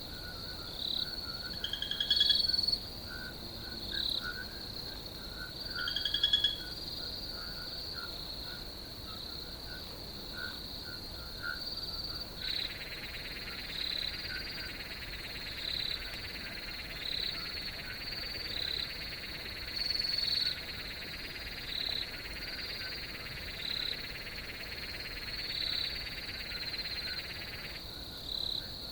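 Chorus of crickets and frogs: a steady high cricket trill with chirps about once a second, and two louder calls about two and six seconds in. A lower buzzing trill comes in about twelve seconds in and stops shortly before the end.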